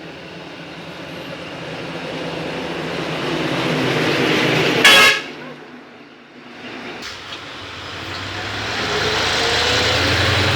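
A heavy truck drives up and past, its engine and tyre noise building, with a short, loud horn blast about five seconds in. A second vehicle then approaches, its engine note rising as it comes closer.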